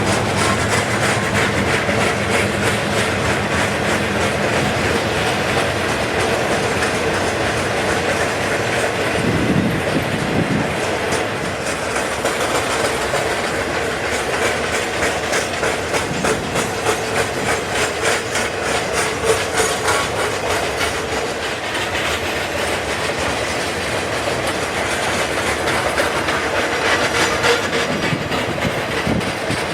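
Freight cars of a passing train rolling by, the wheels clicking steadily over rail joints.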